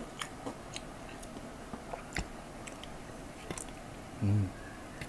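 Close-miked chewing, with scattered small wet mouth clicks, of someone eating fried rice by hand. About four seconds in there is a short low hum from the eater's voice.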